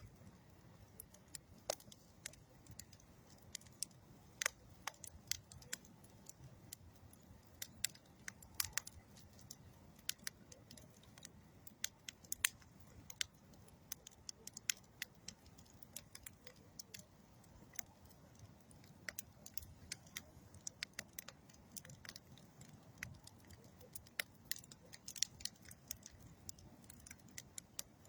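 Campfire of old railroad wood and dead tree wood crackling: irregular sharp pops and snaps, some louder than others, over a faint low rumble of the flames.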